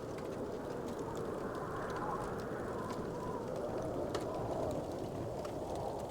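Wood fire burning with a steady soft rush and a few faint, scattered crackling pops.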